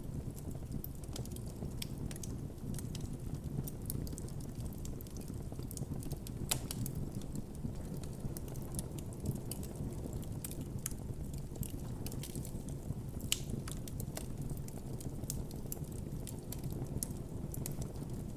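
Campfire burning with a steady low rumble of flames and frequent irregular crackles and pops of burning wood, a few of them sharper than the rest.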